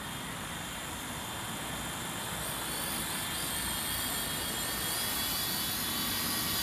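WLtoys Sky Dancer single-blade radio-controlled helicopter in flight: a steady, high-pitched motor whine over main rotor noise, growing slowly louder as the helicopter is flown back in.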